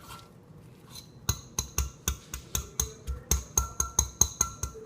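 A utensil striking a dish over and over, about five quick clinking taps a second, as a cooked egg is chopped into little pieces. The taps begin about a second in.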